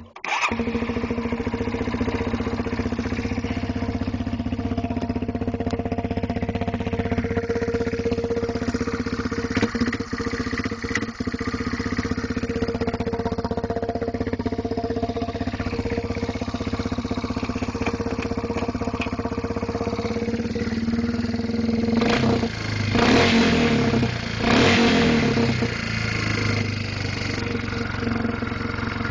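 2001 Yamaha Bear Tracker 250 ATV's single-cylinder four-stroke engine idling steadily through a homemade muffler of radiator hose and PVC pipe, just after starting. About three-quarters of the way in it is revved twice, then settles back to idle.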